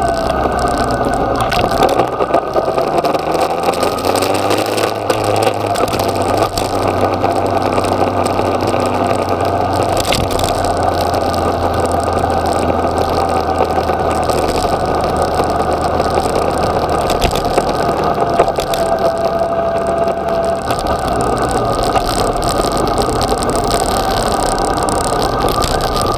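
Yamaha XJ6's inline-four engine running while the bike is ridden, under a rush of wind and road noise. The engine note drops just after the start, climbs again a few seconds in, then holds fairly steady.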